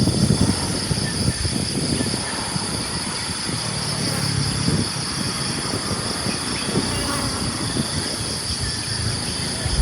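Steady chorus of insects trilling at two high pitches, over an irregular low rumble.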